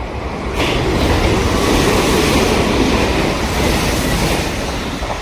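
Electric train passing through a station at speed without stopping: a loud rush of wheel and rail noise that sets in suddenly about half a second in and eases near the end.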